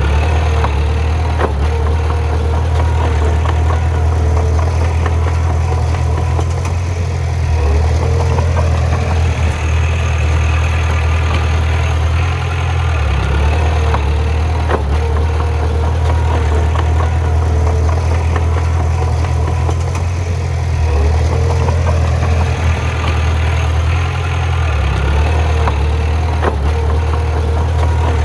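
Heavy diesel engine of a bulldozer running steadily under work, its note dipping briefly a few times, with a few sharp knocks.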